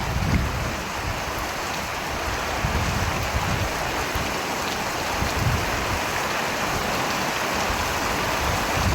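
Steady rain, an even hiss with a few brief low rumbles.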